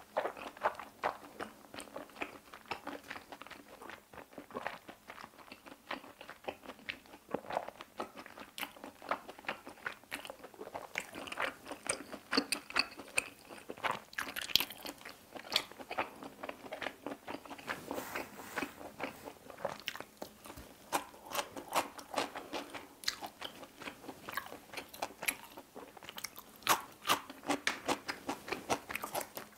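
Close-miked chewing of a mouthful of cheese pasta, a continuous irregular run of small clicks and smacks.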